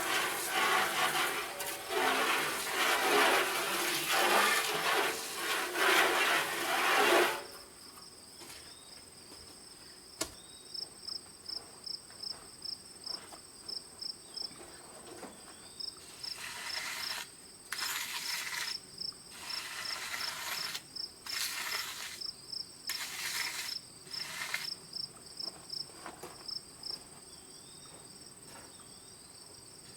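A loud, rough rubbing or scraping noise stops abruptly about seven seconds in. Crickets then chirp in an even pulsing rhythm over a thin, steady high insect drone, broken by several shorter bursts of the same rubbing noise.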